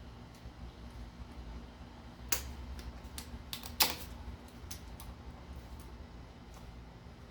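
Scattered small clicks and taps of hand tools and plastic and metal parts being handled on an engine's intake manifold, with two sharper, louder clicks a little over two seconds in and just before the four-second mark.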